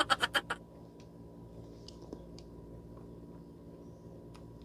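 A rapid run of sharp mechanical clicks, about a dozen a second, that stops about half a second in. After it comes a faint steady hum with a few scattered soft ticks.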